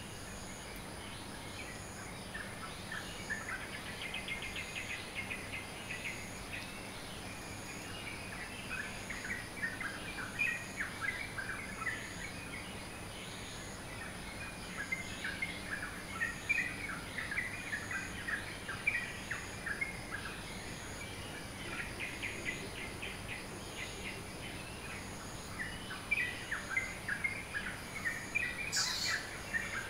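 Dawn chorus of many small songbirds chirping and twittering over one another in quick, overlapping phrases, with a brief higher falling whistle near the end. A faint steady high-pitched whine and a faint evenly repeating high pulse run underneath.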